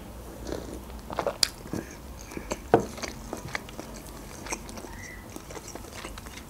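Close-miked eating sounds: a sip from a cup, then chewing with a scatter of short mouth clicks, a few louder ones about a second in and just before the third second.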